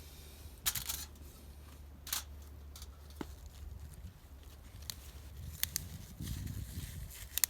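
Hand-handling sounds of stuffing cheese and wild garlic into a raw chicken breast: scattered rustles and a few sharp clicks and crinkles, over a steady low rumble of wind on the microphone.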